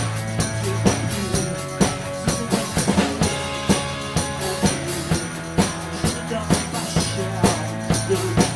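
Instrumental passage of a band playing a song: a drum kit keeping a steady beat under sustained bass and other pitched instruments, with no singing.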